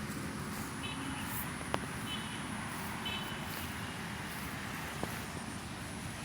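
Steady outdoor background noise with a low rumble, a few faint clicks, and three brief high chirps in the first half.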